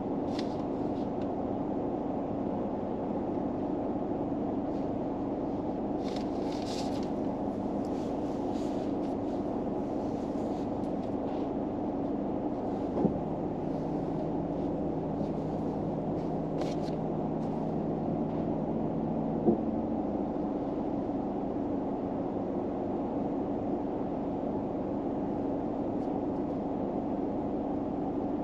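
Steady low hum inside a parked car, such as the engine or heater fan running. A deeper hum switches on with a click about halfway through and cuts off with another click some six seconds later. A few faint rustles come in between.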